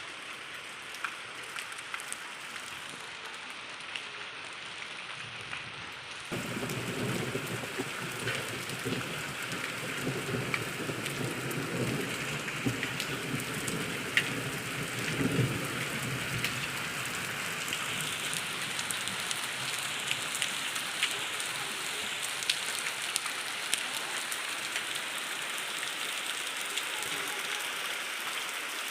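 Rain falling steadily, with scattered sharp drop hits. About six seconds in it suddenly gets louder and fuller, with a deeper rumble underneath for about ten seconds.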